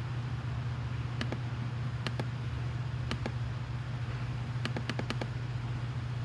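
A steady low machine hum, with light sharp clicks scattered over it, including a quick run of clicks about five seconds in.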